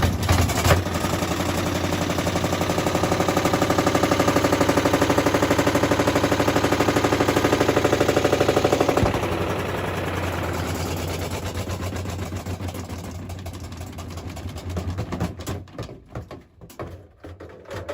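Washing machine on spin with bricks in its drum, the bricks hammering the drum in a fast, steady rattle. About nine seconds in, the drum slows and the banging fades into slower, scattered knocks as it winds down.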